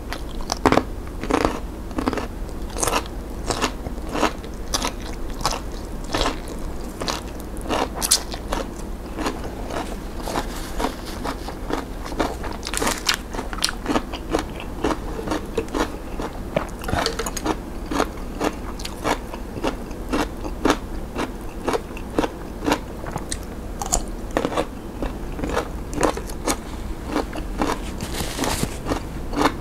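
Close-miked crunching and chewing of crisp vegetables, starting with a bite into a blanched Chinese kale stalk. The crunches come as many irregular sharp clicks and go on steadily.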